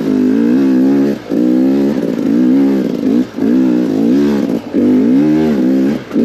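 KTM 250 XCW two-stroke enduro motorcycle engine being ridden, revving up and dropping back again and again as the throttle is opened and rolled off, about five or six times.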